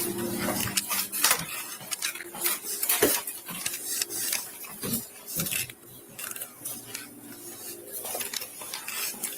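Scattered metallic clinks, clicks and knocks of kitchen cookware and gas-stove parts being handled, as the stove is checked for a gas leak.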